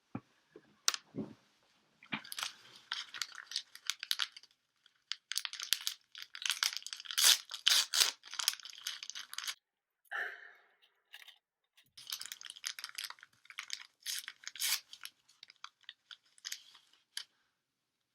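Cloth bandage and gauze being unwrapped, torn and crinkled while a head dressing is changed, in three long stretches of rustling and tearing. A sharp click about a second in.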